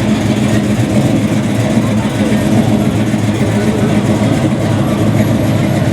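Car engine running steadily, a low even drone.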